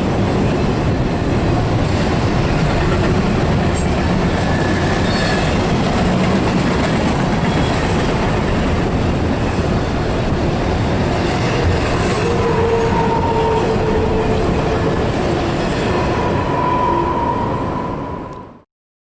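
Railroad cars rolling past: a steady rumble and clatter of wheels on rail, with faint wheel squeal in the second half. The sound fades out and stops near the end.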